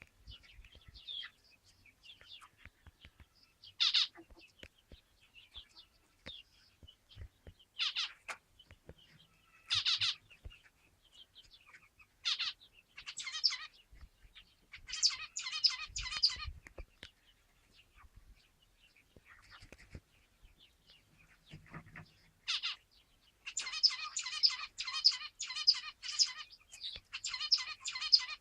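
Zebra finches calling: single short calls every second or two, with a few quick clusters, then a fast run of repeated notes over the last five seconds.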